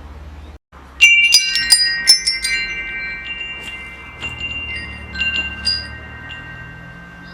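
Metal wind chimes struck in a flurry about a second in, the tubes ringing on with long sustained tones that slowly fade, followed by a few lighter strikes. A steady low hum runs underneath.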